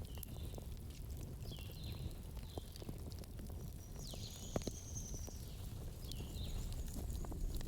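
Campfire burning: a steady low rumble with scattered crackles and a sharper pop about four and a half seconds in. Short, high chirps repeat in the background.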